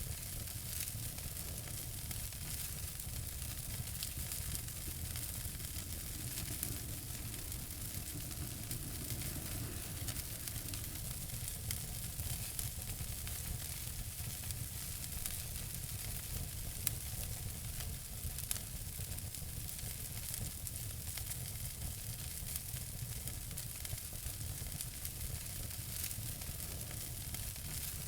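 Wood fire burning in a fireplace: a steady hiss with many small crackles, and two sharper pops a little over halfway through.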